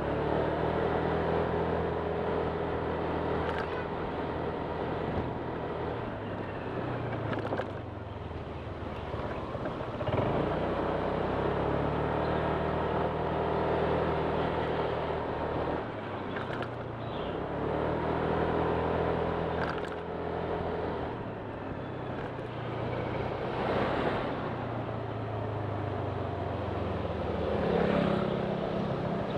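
Honda Click 125 scooter's single-cylinder engine running under way, its pitch rising and falling several times as the scooter speeds up and eases off, over steady wind and road noise.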